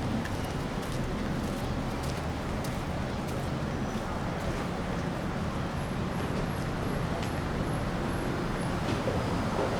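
Road traffic: motor vehicles running past with a steady low engine hum. A faint row of about nine short, high-pitched beeps comes in about halfway through.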